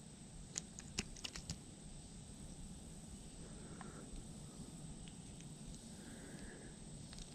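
Several sharp clicks in quick succession about a second in, over a faint steady low background noise.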